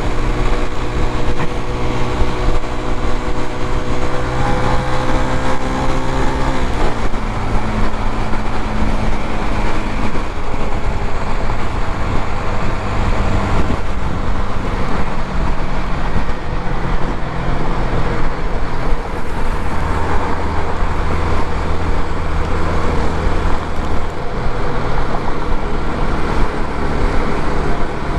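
Suzuki GZ250's single-cylinder engine running at freeway speed under steady wind and road noise. The engine note holds steady for about six seconds, then shifts and is mostly buried in the rush of wind and traffic.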